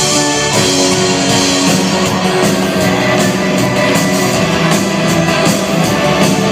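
Live rock music: an instrumental passage with guitar and a drum kit keeping a steady beat over sustained chords.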